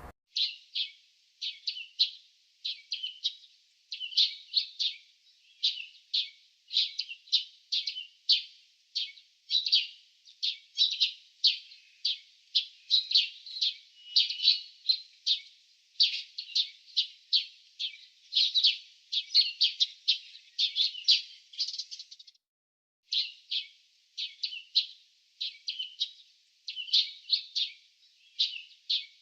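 Small birds chirping: quick, high calls in tight clusters, nearly nonstop, with a brief pause about two-thirds of the way through.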